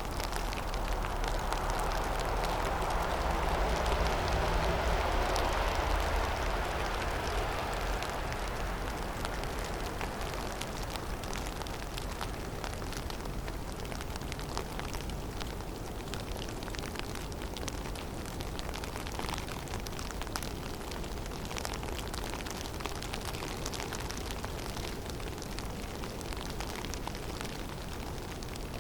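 Snowstorm in a forest: a steady rush of wind through the trees that swells in a gust over the first several seconds and then settles, with a fine scattered ticking of snow and ice landing.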